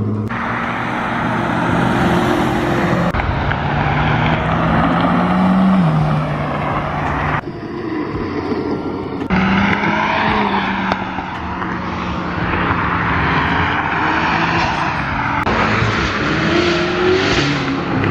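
Car engines revving and accelerating as cars drive off one after another. Several short clips are cut together, so the engine sound changes abruptly every few seconds.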